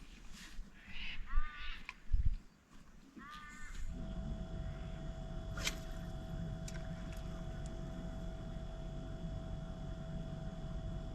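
Crow cawing in two short bouts, with a dull thump between them; then, about four seconds in, a steady low hum with a thin constant whine takes over.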